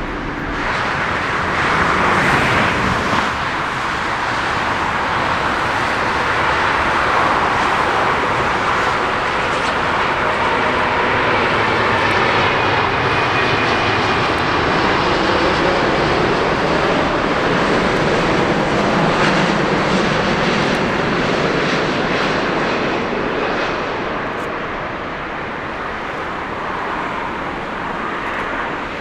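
Jet airliner passing close by with its engines running: a loud, even rush with a faint whine on top. It builds about a second in, holds, then eases off near the end.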